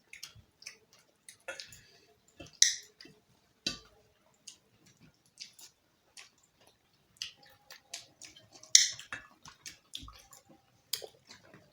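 Close-up mouth sounds of someone eating roti with chicken curry: chewing and wet lip smacks, heard as a string of short, irregular clicks and smacks.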